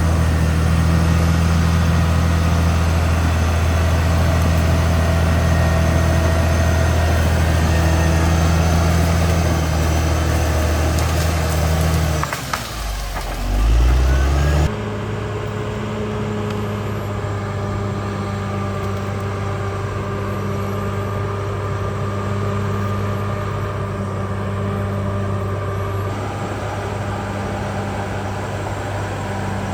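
CAT D6R XL bulldozer's diesel engine running steadily. About halfway through, its pitch dips and then sweeps back up. After an abrupt change, it runs on with an even hum at a slightly different pitch.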